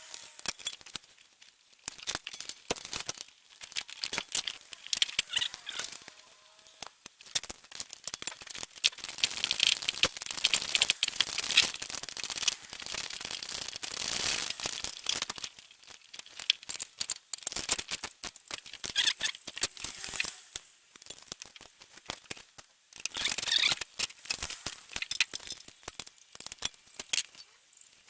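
Hand-tool work on an engine: irregular metallic clicks, rattles and scraping in uneven spells, with short pauses between.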